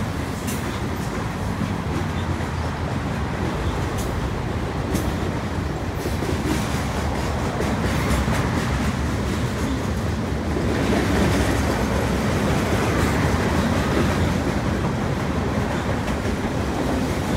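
Two freight trains of mixed cars (covered hoppers, boxcars, autoracks and tank cars) rolling past each other on adjacent tracks. The cars make a steady rumble, with occasional sharp clicks of wheels over rail joints. The sound grows louder about ten seconds in.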